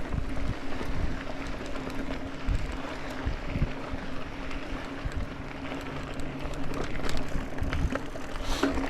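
Wind on the microphone over steady rolling noise with frequent low knocks and rattles, typical of a mountain bike ridden over a rough trail.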